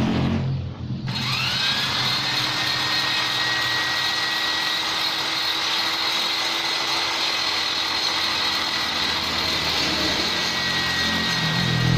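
High-speed rotary grinder with a tuner burr spinning up about a second in to a steady high whine, then running steadily over a grinding hiss. This is the tool used to shape the ports of a Vespa two-stroke cylinder.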